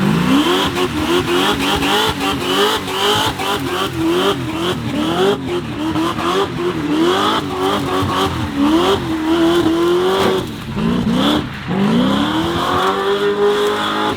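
Burnout truck's engine revved hard and held high, its pitch surging up and down over and over while the rear tires spin and squeal against the pavement. The revs fall away briefly about ten and a half seconds in, then climb back up.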